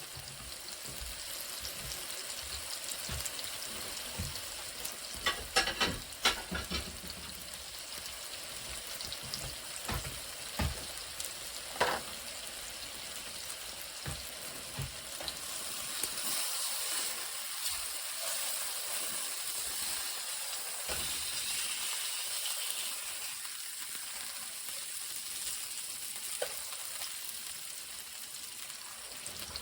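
Chicken and Brussels sprouts sautéing in a frying pan: a steady sizzle, with a few sharp knocks and scrapes of a utensil against the pan in the first half.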